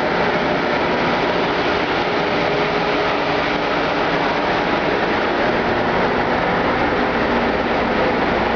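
Machinery in a ship's engine room running: a loud, steady, unchanging din with a faint steady hum in it.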